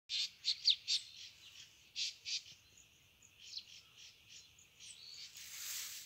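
Small birds chirping: a quick run of four sharp chirps, then two more about a second later, with fainter calls after. A soft, even hiss rises near the end.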